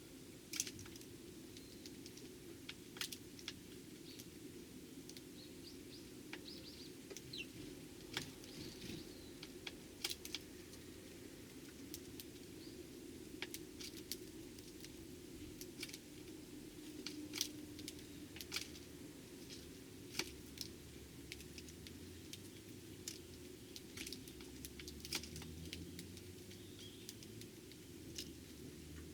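Eurasian tree sparrows feeding: irregular sharp ticks and taps every second or two, with a few faint short chirps, over a steady low hum.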